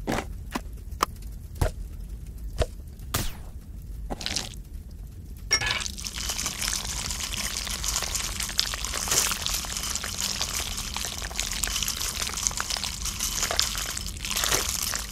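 A few sharp clicks as the plastic lid of a jar is worked open. About five and a half seconds in, a steady pouring sound begins as the jar's contents go into a ceramic bowl, and it runs on for several seconds.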